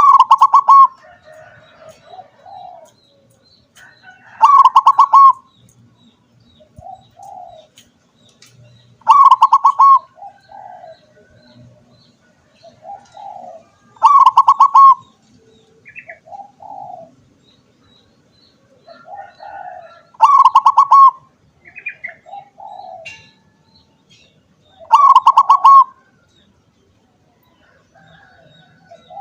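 Zebra dove (perkutut) singing: six loud, rapidly rolled coo phrases, roughly one every five seconds, with softer low coos between them.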